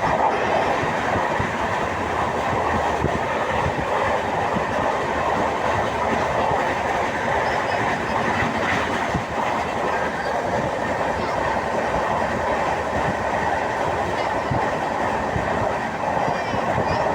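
Passenger train running steadily at speed, heard from inside the coach: a continuous rumble with wheels clattering over the rail joints.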